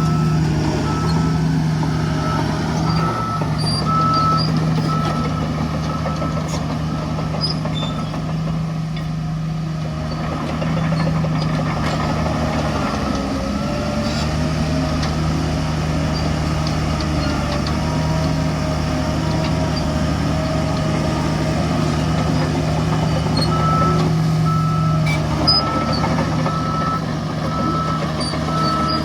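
Heavy diesel earthmoving machinery running steadily under load. A reversing alarm beeps in repeated pulses in the first few seconds and again near the end.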